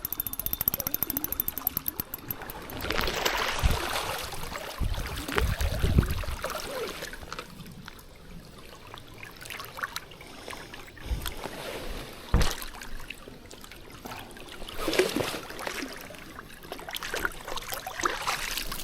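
River water splashing and trickling, with gusts of wind on the microphone. A rapid, even ticking is heard at the start, and a few low thumps come through the gusts.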